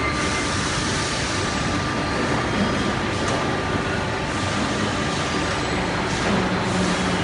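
Steady running noise of automated roller-conveyor machinery. A low hum comes in about six seconds in.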